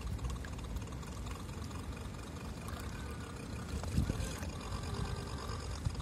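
Strong wind rumbling on the microphone over splashing water, with a brief thump about four seconds in.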